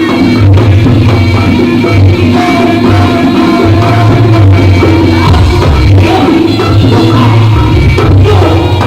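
Loud live jaranan music from a Javanese horse-dance troupe's ensemble: heavy, continuous drumming under pitched melody lines.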